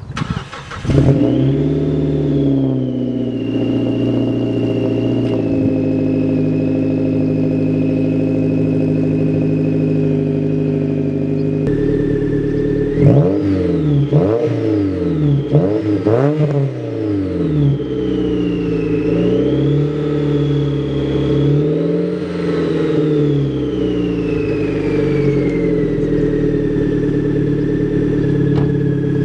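Mazda3's four-cylinder engine, with its exhaust resonator deleted, cold-starting about a second in: it flares up, then settles to a steady fast idle. Past the middle come several quick blips of the throttle, rising and falling in pitch, then a few slower revs before it drops back to idle, with a deep, throaty exhaust note.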